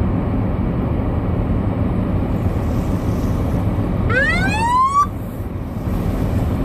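Steady low rumble of a car driving on snowy roads, heard inside the cabin. About four seconds in, a single rising whine lasts about a second and cuts off sharply.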